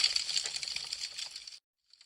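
Wood fire crackling with a dense run of small pops and snaps, fading away and then cutting out to dead silence near the end.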